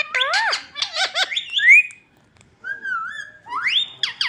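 Pet parrot chirping and whistling in quick calls that swoop up and down in pitch. There is a short pause about two seconds in, then a wavering whistle, a sharp rising whistle and several quick falling chirps near the end.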